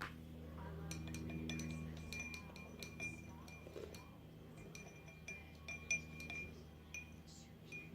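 Paintbrush being rinsed in a glass jar of water, the brush clinking lightly against the glass many times with a brief ringing note.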